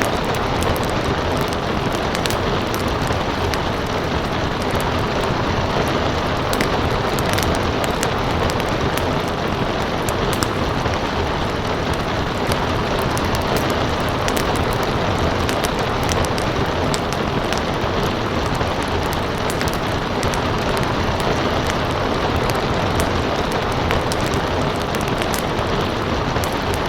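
Steady rain hiss mixed with a crackling wood fire, its short sharp pops and snaps scattered all through.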